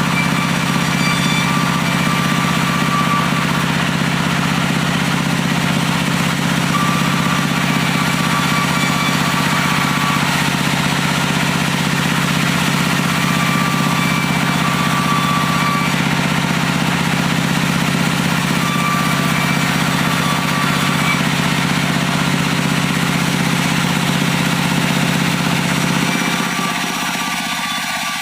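Stationary diesel engine running steadily, driving a timber sawmill, with the mill's harsh noise over it. About 26 seconds in, the engine's low note fades and the sound gets slightly quieter.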